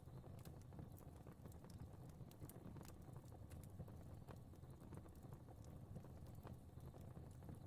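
Faint crackling fire: irregular small pops and snaps over a low, steady rumble of burning.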